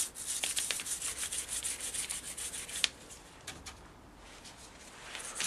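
A brush scrubbing degreaser into a motorcycle engine casing: quick back-and-forth scratchy strokes for about three seconds, a few more strokes, then a pause.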